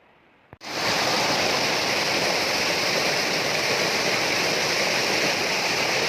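Waterfall rushing, a loud steady wash of falling water that cuts in abruptly about half a second in, after a moment of faint hiss.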